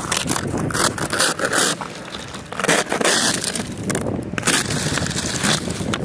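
Ice crunching and scraping in a quick, irregular run of harsh strokes.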